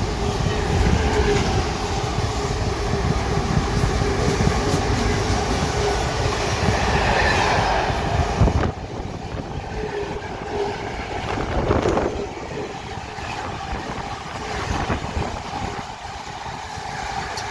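Freight train hauled by a Class 99 locomotive passing at speed, its wheels running and clattering over the rails, with a steady tone in the rumble. The sound drops suddenly about halfway through, and a quieter rolling of wagons goes on.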